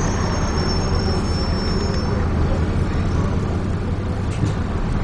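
Dennis Trident 2 double-decker bus running, heard from inside the cabin as a steady low engine and road drone. A thin high-pitched whine fades out about two seconds in.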